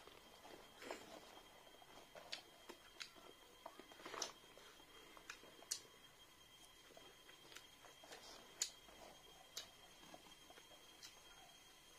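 Quiet mukbang eating sounds: scattered wet mouth clicks and smacks from chewing rice and chicken curry eaten by hand, at uneven intervals.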